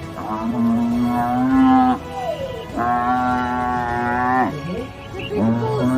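A bovine mooing: three long, drawn-out calls held at a steady pitch, with short gliding sounds between them.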